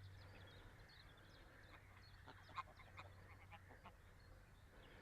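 Faint scattered calls of waterfowl, ducks and geese, over quiet open-air background, one call a little clearer about two and a half seconds in.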